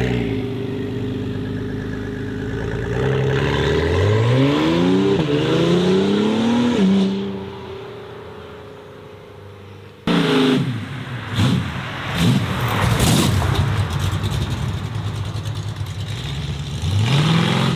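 A car's engine accelerating hard away through two upshifts, its pitch climbing and dropping back at each shift, then fading out. After an abrupt change, another car's engine is blipped in quick rises and falls with a few sharp cracks, and begins to pull away near the end.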